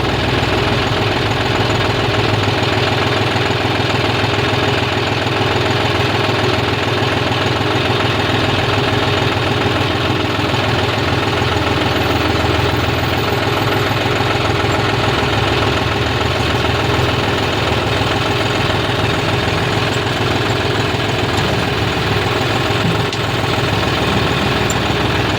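Large diesel engine running steadily at a constant speed, with no revving.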